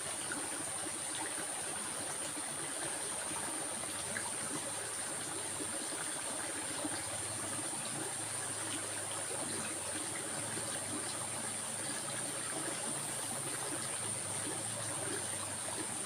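Stream of water flowing in a steady, even rush, with a steady high-pitched tone running along with it.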